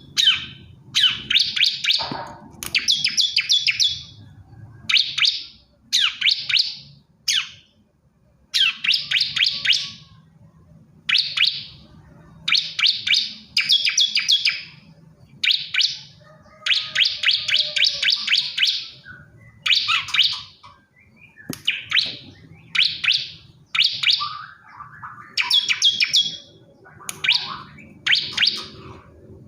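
Male ciblek kristal (bar-winged prinia) singing to call a female: a long run of short, high, fast-trilled phrases, one every second or so with brief gaps, over a faint low hum.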